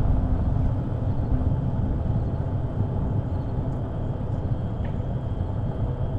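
Steady low rumble of wind and road noise from riding an e-bike at about 8.5 mph, with no distinct events.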